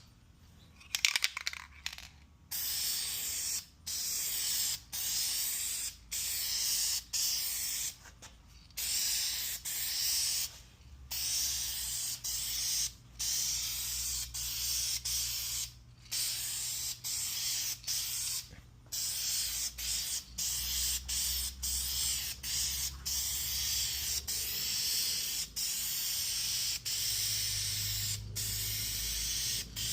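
Aerosol spray paint can spraying in repeated hissing bursts of about a second each, with brief pauses between passes. A few sharp clicks come about a second in.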